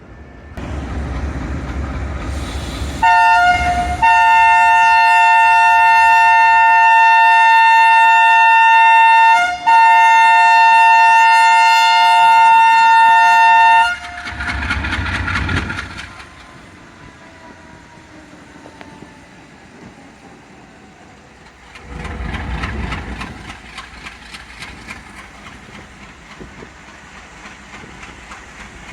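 Diesel locomotive horn sounding a two-note chord: a short blast, then a long blast of about ten seconds with a brief break in the middle. Low rumbling comes before the horn and again after it.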